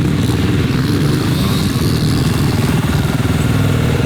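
Yamaha 450 four-stroke single-cylinder dirt bike engine running steadily on the track.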